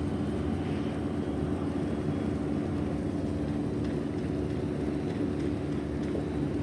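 Ship's engine droning steadily, a constant low hum with a few steady low tones and no change in pace.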